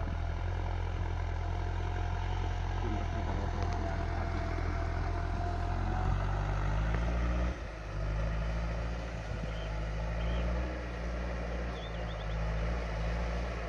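Tractor engine running steadily while plowing. The sound dips briefly about seven and a half seconds in, then carries on at a slightly different pitch.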